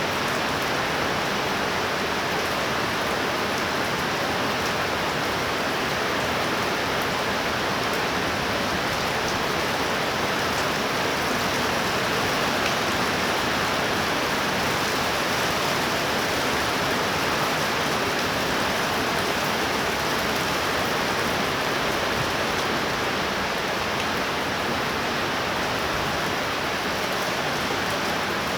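Heavy, torrential rain pouring down steadily, a dense even hiss of drops hitting surfaces.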